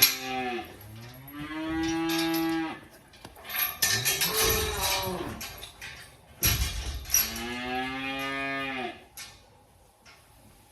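Dairy cows mooing: two long moos, one starting about a second in and another about seven seconds in, with a sharp knock between them.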